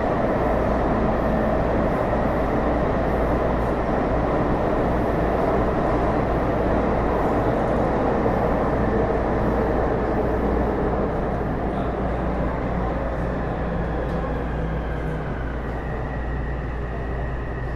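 Taipei Metro Series C301 train with Bombardier IGBT-VVVF traction, heard from inside the car while running between stations: steady wheel-on-rail rumble and car noise with a thin high tone. In the last several seconds the sound eases off and a faint whine falls in pitch.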